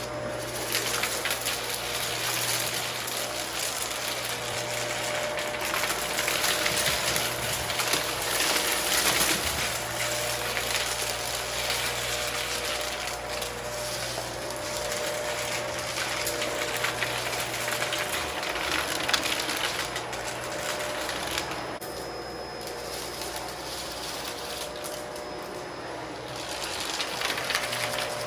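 Upright vacuum cleaner running steadily over carpet, with a crackle of debris being sucked up through it. The motor's hum stays even while the noise swells and eases as the vacuum is pushed back and forth.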